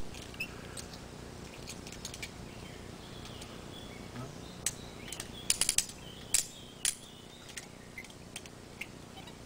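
Woodland ambience: birds chirping faintly over a steady hiss. Scattered sharp clicks run through it, with a quick cluster about five and a half seconds in and two louder ones just after.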